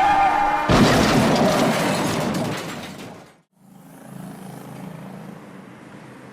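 A truck horn blares and is cut off about a second in by a sudden loud crash that rings out and fades over about two seconds. After a brief dropout, a low steady hum is left.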